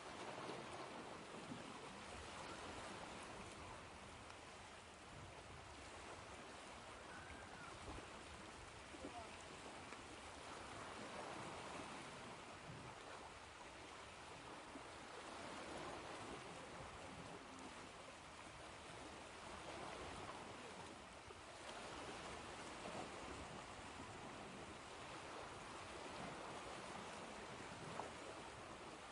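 Ocean waves washing ashore: a quiet, continuous rush of water that gently swells and eases every few seconds.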